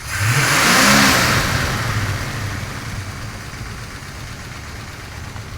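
A Chevrolet V8 engine with HEI ignition is blipped once: its pitch rises quickly in the first second, then falls back and settles into a steady idle as the rush of the rev fades.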